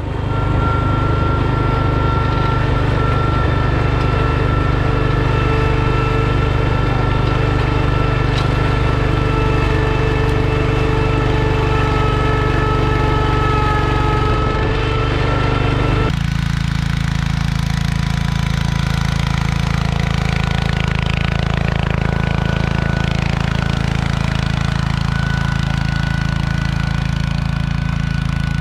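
Garden tractor engines running steadily at working speed, with an abrupt change in engine note about halfway through where one engine's sound gives way to another's.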